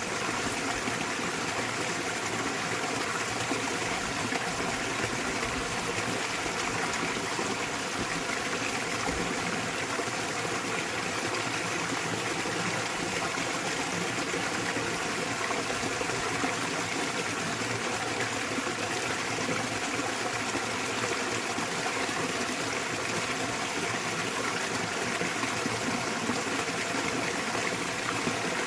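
Small waterfall pouring steadily into a mountain stream, an even rushing and splashing of water that does not change.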